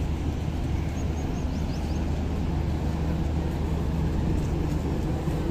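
Steady low drone of a stationary passenger train's machinery running, holding one pitch.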